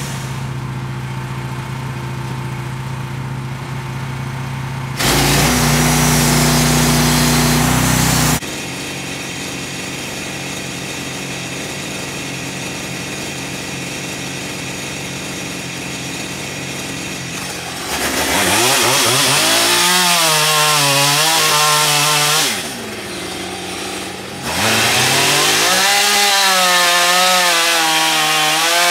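Small petrol-engined saw running, cutting wood. It switches between a lower steady speed and loud high revs: briefly about five seconds in, and twice more in the second half, where the pitch wavers under the load of the cut.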